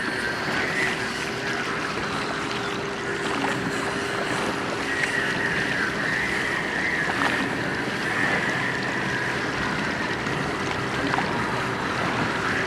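Water washing along the hull of a moving rowing boat, with wind on the microphone and a steady hum underneath.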